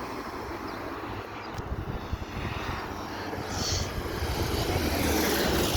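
Engine and propeller of a Cessna 172N light plane coming in to land, a steady drone growing louder near the end as the aircraft draws closer.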